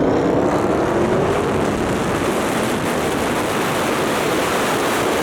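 A car engine revving higher as it accelerates, its pitch rising in the first second. It is then covered by a loud, steady rushing noise.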